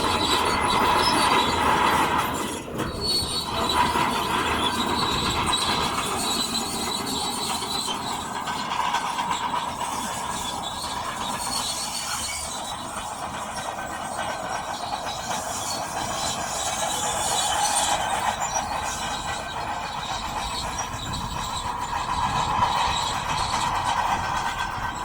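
Shantui DH17C2 crawler bulldozer working, its steel tracks giving a steady metallic squeal over the running machine.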